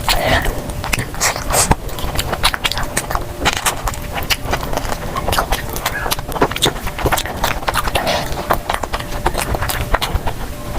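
Close-up eating sounds: a person chewing and biting food, with many quick mouth clicks and crunches coming one after another.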